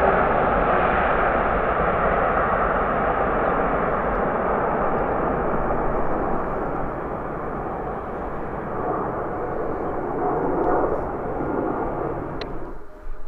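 Jet airliner passing close by on its landing approach: a loud, steady engine rush that slowly fades as it moves away, then drops off sharply near the end.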